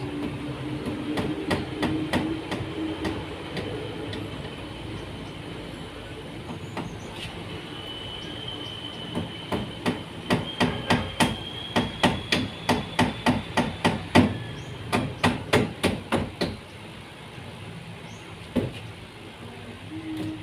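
Hammer driving nails, a few scattered blows at first, then a steady run of about three blows a second for several seconds before stopping.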